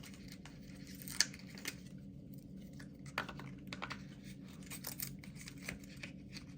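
Scattered clicks and rustling of a small lithium-ion battery pack being pushed into its slot in a 1/16-scale RC truck's plastic chassis, with one sharp click about a second in.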